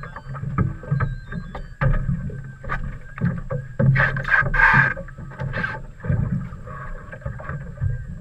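Water sloshing and wind buffeting around a small fishing boat, an uneven low rumble with scattered knocks, and a louder rush of noise about four seconds in.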